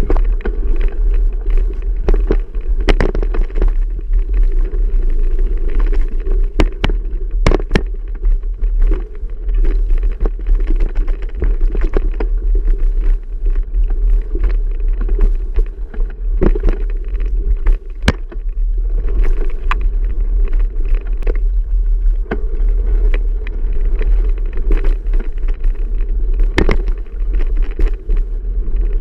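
Steady rumble of wind and tyres heard from a bike-mounted camera while riding a trail, with frequent knocks and rattles from bumps along the way.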